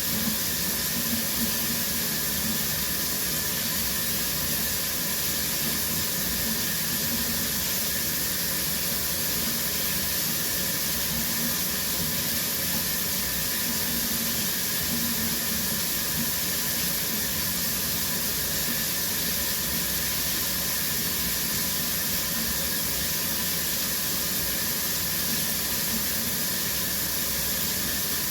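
Shower running steadily, water spraying from the showerhead and splashing in the stall as an even hiss.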